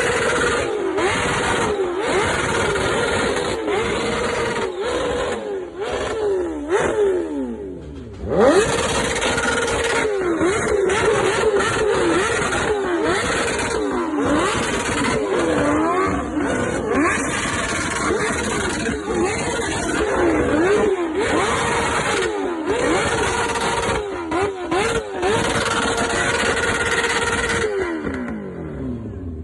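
Inline-four superbike engine being revved hard again and again, the pitch rising and falling in quick blips and often held steady at high revs. It briefly drops off about eight seconds in, then revs up sharply again, and near the end the revs fall away.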